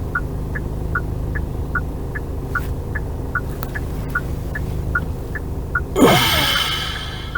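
A taxi's indicator relay clicking steadily in a tick-tock rhythm, about five clicks every two seconds, over the low hum of the idling car in the cabin. About six seconds in, a brief, louder noisy sound with a falling tone cuts in and fades away.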